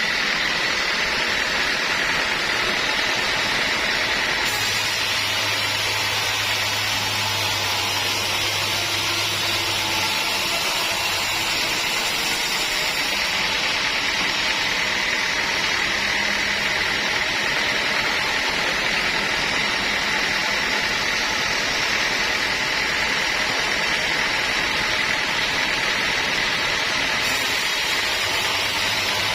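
Sawmill machinery running steadily, a loud, even mechanical noise with a constant high whine.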